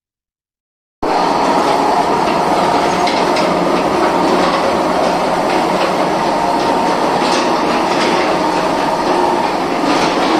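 Loud, steady mechanical rumble and clatter, cutting in suddenly about a second in after dead silence, with scattered clicks through it.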